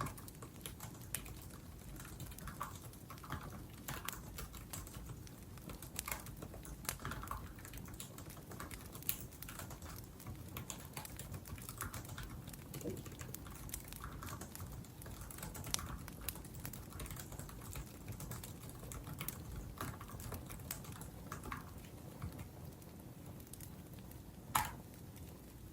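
Typing on a laptop keyboard: irregular key clicks, with a wood fire crackling underneath. One louder click near the end.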